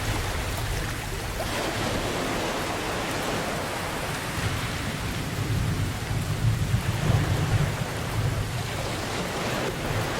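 Steady heavy rain with a low rumble of thunder rolling underneath, swelling a little past the middle.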